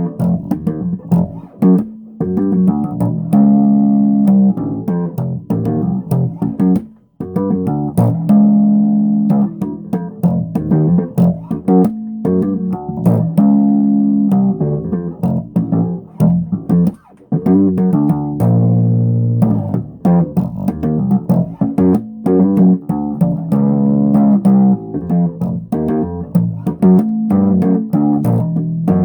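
Bass guitar played in a continuous run of plucked notes, with short breaks about 7 and 17 seconds in.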